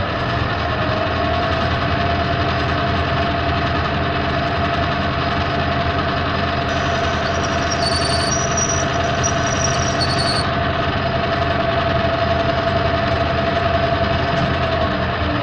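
Metal lathe running under a turning cut, reducing a shaft's diameter, with a steady mechanical drone and an even whine that holds until the end. Two short high-pitched squeals come about eight and ten seconds in.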